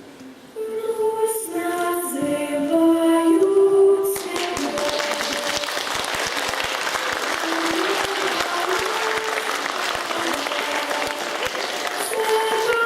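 Music with singing, and from about four seconds in an audience applauding over it as the tune carries on.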